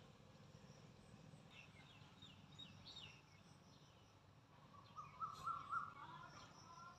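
Quiet outdoor background with birds calling: a few quick high chirps about two seconds in, then a louder run of rapid repeated notes about five seconds in.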